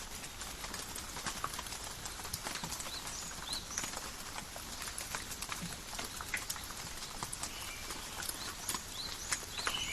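Calm, steady rain falling in a forest, with many individual drops ticking sharply on leaves against a hiss of rainfall. A few short high chirps come through now and then.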